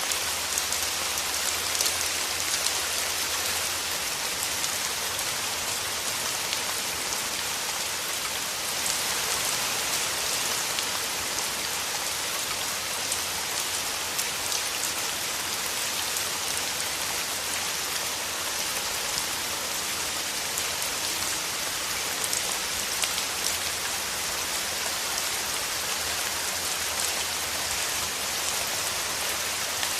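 Steady rain falling through forest trees: an even hiss with many small drops pattering on leaves.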